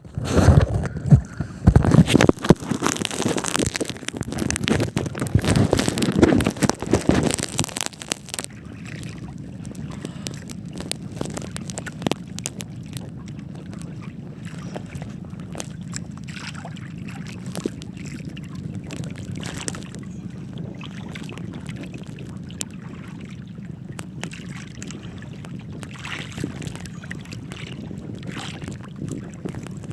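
Wind buffeting the microphone for about the first eight seconds, then the steady low hum of a small boat under way, with scattered clicks and knocks.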